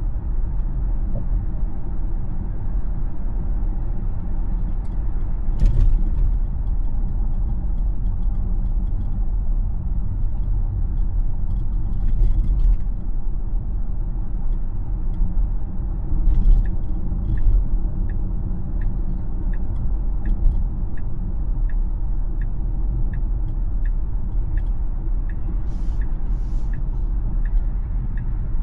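Steady low road and tyre rumble inside a moving Tesla's cabin, with a few brief knocks. From a little over halfway through, a turn-signal indicator ticks evenly, about one and a half ticks a second.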